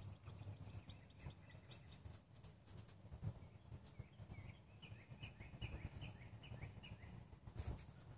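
Faint outdoor ambience: a small bird sings two runs of quick, short chirps, the second longer, over a low rumble and soft clicks.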